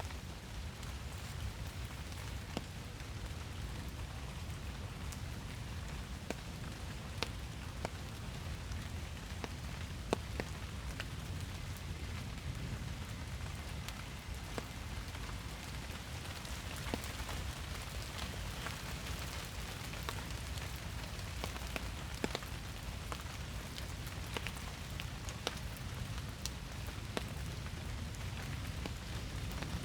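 Steady rain falling in a forest: an even hiss of rainfall with many separate drops landing close by as sharp ticks, over a steady low rumble.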